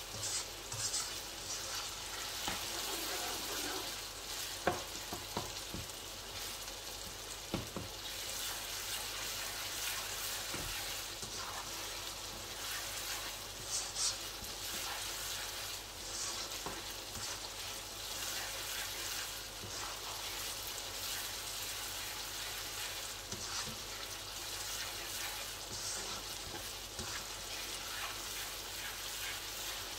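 Onion-tomato masala sizzling steadily as it fries in a wok, stirred with a slotted spatula that scrapes through it, with a few sharp knocks of the spatula against the pan.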